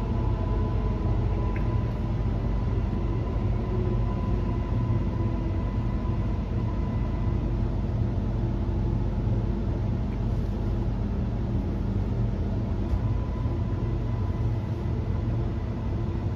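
Bombardier NGR electric multiple unit heard from inside the carriage while running, a steady low rumble with a thin steady whine above it.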